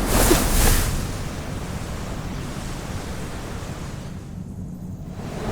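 Sound effect of a spatial storm's wind: a whoosh at the start, then a steady low rushing rumble that dies down about four seconds in and swells again at the end.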